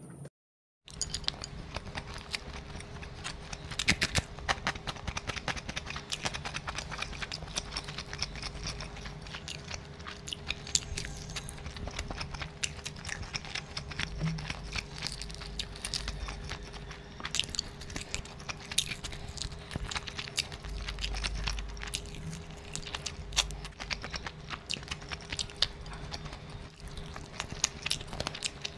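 Close-miked mukbang eating: a person chewing and biting mouthfuls of mutton curry and rice eaten by hand, heard as a constant run of short crackly clicks over a faint steady hum. A brief silence comes near the start.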